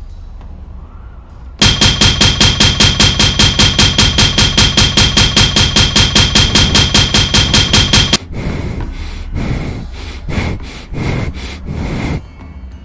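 Rapid, loud banging, about six or seven even strikes a second with a high ringing tone, lasting some six seconds. It then gives way to slower, quieter, irregular knocks.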